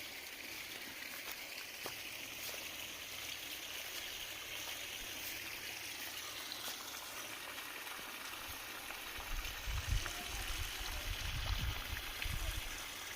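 Water running steadily, a constant hiss like a small stream or field channel. From about two-thirds of the way through, wind buffets the microphone in uneven low rumbles.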